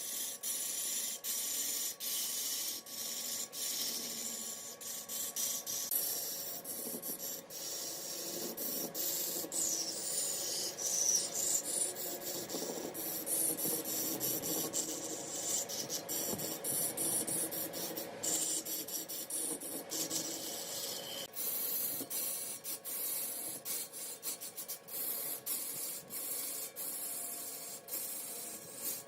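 Mahogany being turned on a large woodworking lathe: a hissing, scraping sound of the tool shaving the spinning wood, broken by many short gaps, over a faint steady hum from the machine.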